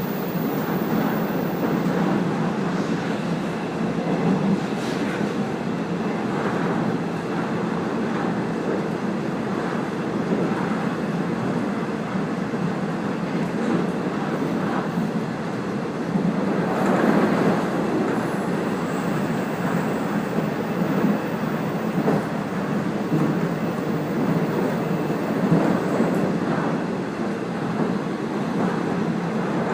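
Passenger train running at speed, heard from inside the car: a steady rumble of wheels on rail with faint clicks over rail joints, swelling briefly about halfway through.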